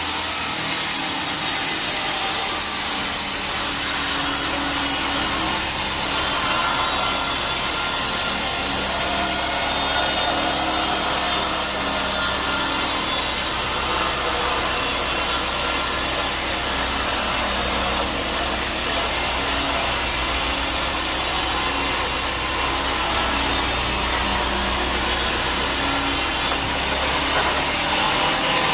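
Sawmill band saw cutting lengthwise through a teak log, a steady loud rasping hiss of the blade in the wood. About 27 seconds in, the highest part of the hiss thins out.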